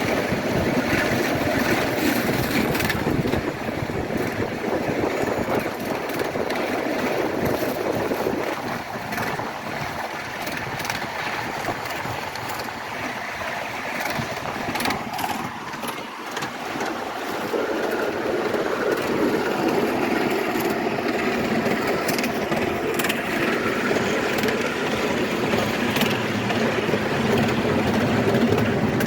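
Miniature ride-on railway train running along its track, a steady engine sound with occasional sharp clicks, dipping in loudness about halfway through and building again.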